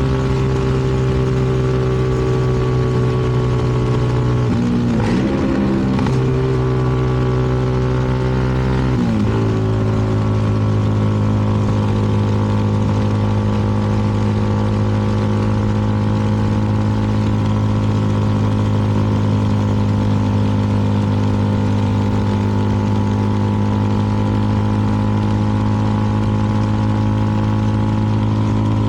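CFMoto 300NK's single-cylinder engine running steadily under way, with wind and road noise. The engine note wavers about five seconds in, then settles at a lower steady pitch about nine seconds in.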